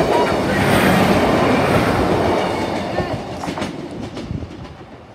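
Passenger train passing close by at a level crossing, its wheels rumbling and clattering on the rails. The noise is loudest at first and fades away over the last couple of seconds as the train moves off.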